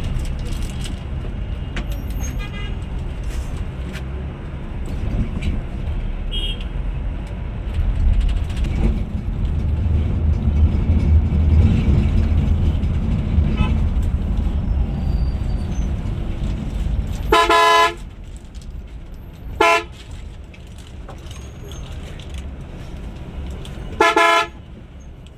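A heavy vehicle's engine rumbles for most of the time, then a vehicle horn honks three times: a long honk, a short one, and a final honk near the end.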